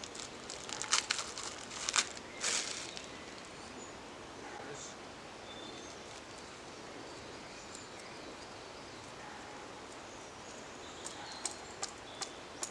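Crinkling and rustling as a ball of twine is unwrapped and handled, with sharp crackles in the first three seconds and again near the end. A steady outdoor background hiss fills the middle stretch.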